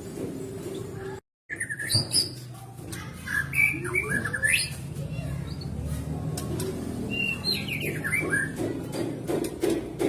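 White-rumped shama (murai batu) singing in short bursts of quick, sliding whistled and chirped notes, the sort of song played to caged birds to set them singing. The sound cuts out completely for a moment about a second in.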